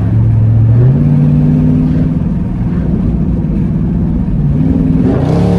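Exhaust of a 2019 Dodge Charger Scat Pack's 392 (6.4-litre) HEMI V8 with the mid muffler deleted, heard while driving. The engine note is loud and steady, steps up in pitch about a second in, and rises again near the end as the car accelerates.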